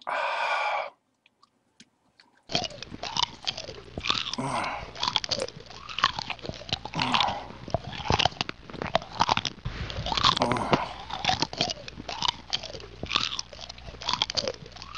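Close-up wet chewing and crunching of cigarettes in a man's mouth, with many irregular clicks and smacks, starting about two and a half seconds in. A short pitched tone sounds in the first second, before the chewing.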